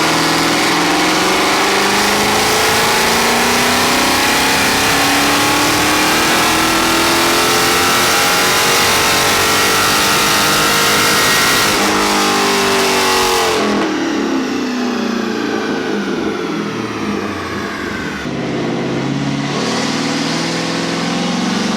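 6th-gen Camaro V8 with gutted catalytic converters and no mufflers, making a full-throttle dyno pull: the loud exhaust note climbs steadily in pitch for about twelve seconds, then drops quickly as the throttle closes and the engine winds down, settling to a lower steady run near the end.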